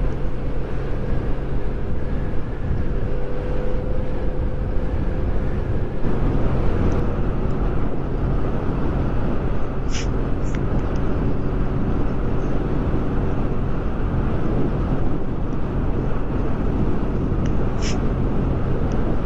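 Kawasaki W800's air-cooled parallel-twin engine running steadily while the motorcycle cruises, with wind noise over it. Two short high ticks come about ten seconds in and another near the end.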